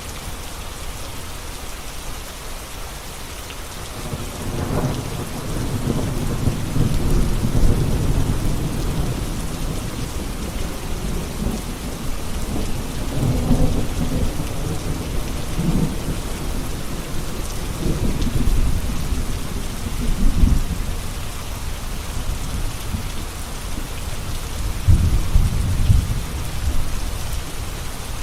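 Thunderstorm: steady rain hiss, with low rolling thunder that starts about four seconds in and swells to louder rumbles several times.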